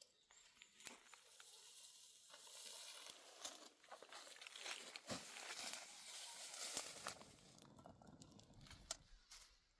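Faint dry rustling and crackling with many small irregular clicks, as of dry material being handled or crushed.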